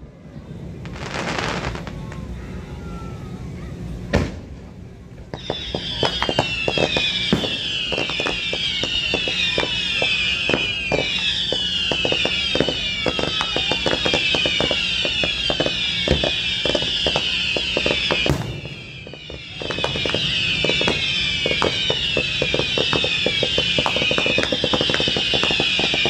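Fireworks going off: a few single bangs in the first seconds, the loudest about four seconds in, then dense rapid crackling over a high sizzling hiss from about five seconds in, breaking off briefly about two-thirds through and starting again.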